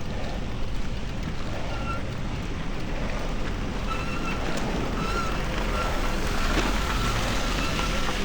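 Steady traffic rumble and wind on the microphone while riding a bicycle through city streets in falling snow. From about halfway through, a faint high squeak repeats roughly twice a second.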